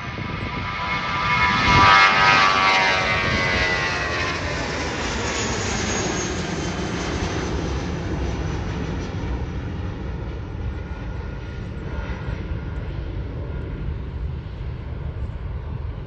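Airbus A320 jet engines at takeoff power as the airliner passes: loudest about two seconds in, with a falling whine as it goes by, then a steady rumble that slowly fades as it climbs away.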